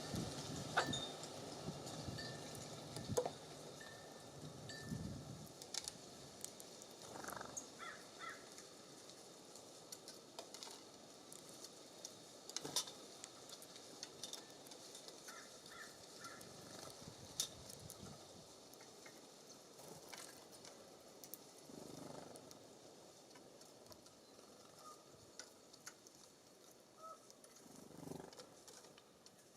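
Bird feeder outdoors: a few short, high bird chirps in small groups, scattered light clicks and taps, and faint breeze rumble that swells now and then.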